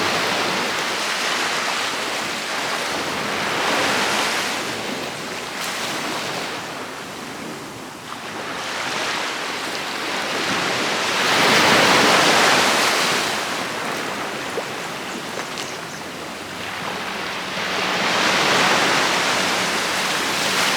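Ocean waves breaking and washing up a sandy beach, the surf swelling and ebbing in long surges, the biggest wave about halfway through. Wind buffets the microphone.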